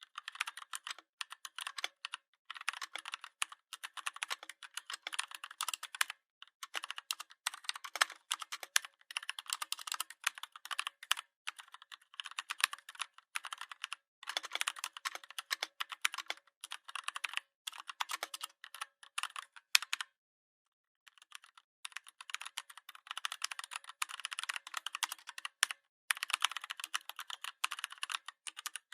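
Typing on a computer keyboard: rapid key clicks in runs with brief pauses, including a pause of about a second roughly two-thirds of the way through.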